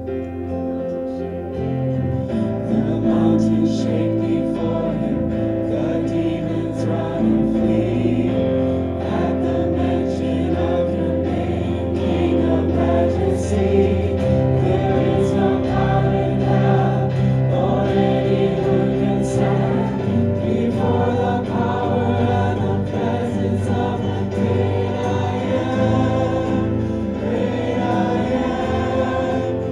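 A group of voices singing a contemporary worship song together, accompanied by a keyboard playing a sustained synth pad.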